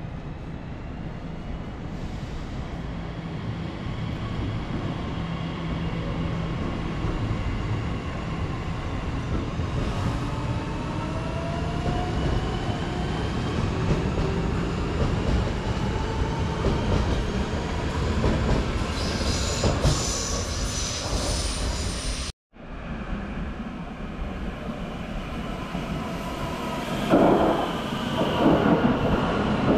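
Electric passenger train moving through a station: a steady rumble with a motor whine that rises in pitch, and a high-pitched wheel squeal about twenty seconds in. After a brief break, another stretch of train running with louder clatter and squeal near the end.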